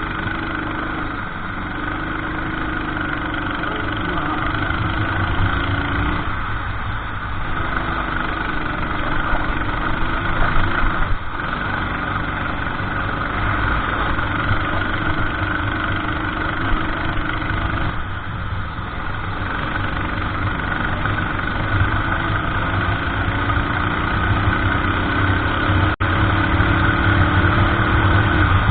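Racing kart engine running hard, its pitch climbing slowly and then falling away several times as the driver accelerates and lifts off.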